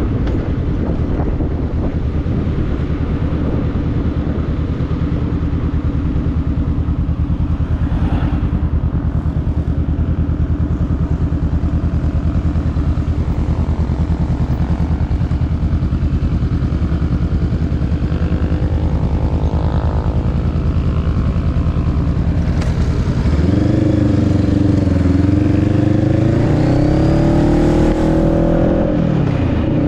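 Motorcycle engine running steadily under way. About 23 seconds in it gets louder and its pitch climbs as it pulls harder, then drops sharply just before the end.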